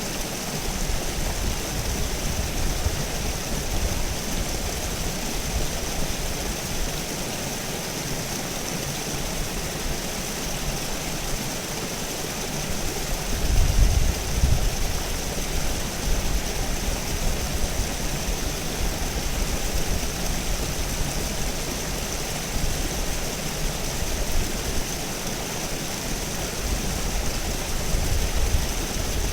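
River water running steadily over rocks, an even rushing noise. Low rumbles come and go underneath it, loudest about halfway through.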